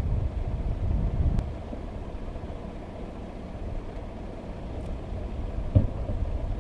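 Low, steady rumble of vehicle engines idling and creeping along the road, louder and gusty for the first second and a half, with a single thump a little before the end.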